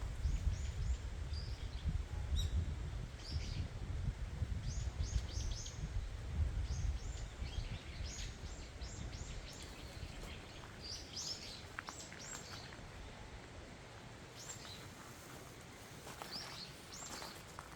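Small birds chirping: many short, high calls scattered throughout, over a low rumble that dies away about halfway through.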